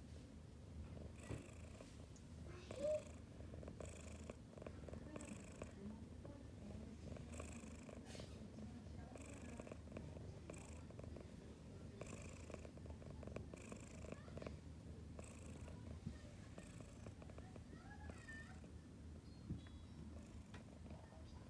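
A Ragdoll cat purring softly: a low, steady rumble with a faint breathy hiss that comes and goes with its breaths.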